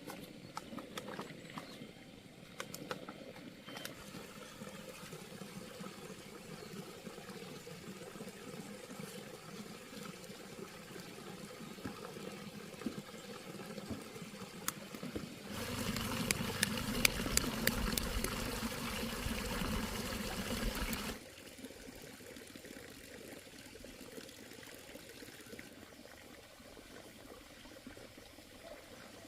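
Water trickling, with scattered small clicks. In the second half it turns louder for about five seconds, then cuts off suddenly.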